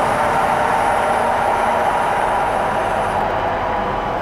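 Train rolling past: a steady, loud rumble of wheels on rail that slowly fades.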